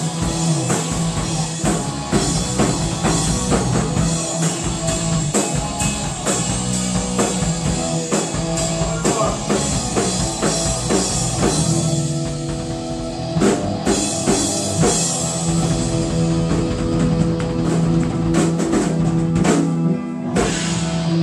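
Live rock band jamming: a drum kit played hard with electric guitar, a loud and steady wall of sound.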